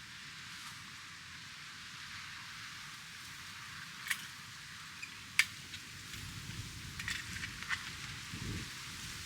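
Wood campfire crackling quietly: a soft steady hiss with a few sharp pops here and there. A low rumble comes in during the second half.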